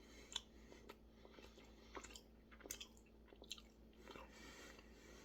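Faint chewing of a chocolate chip cookie, with scattered small mouth clicks and crunches.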